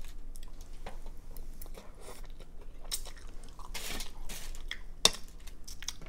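Chewing and biting while eating spicy ramen noodles, with small wet mouth sounds, and a sharp click about five seconds in.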